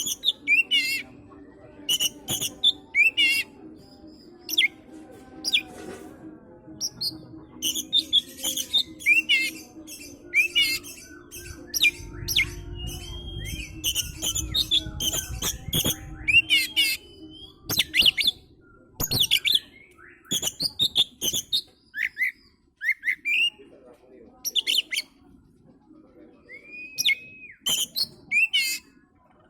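Oriental magpie-robin (kacer) singing a varied run of short chirps, whistles and rasping notes, some sliding up and down in pitch, in quick bursts with short pauses. A steady low hum runs underneath.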